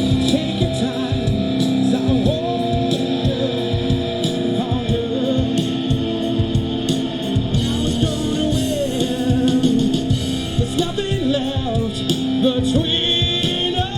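A rock band playing live: electric guitar and drums, with a melodic line that slides up and down in pitch.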